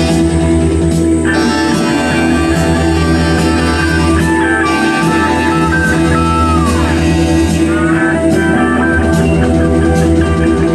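Rock music with guitar lines over a steady bass, and a guitar note sliding down in pitch about six seconds in.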